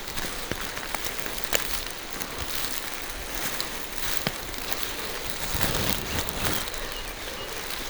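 Steady rain falling through forest trees, with many single drops ticking sharply close by. A brief heavier rustle swells about six seconds in.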